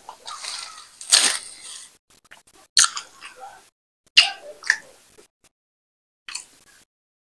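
Close-miked eating sounds: wet chewing and mouth smacks of fufu being eaten, in a series of separate short bursts. The first two seconds also hold rustling of plastic wrap.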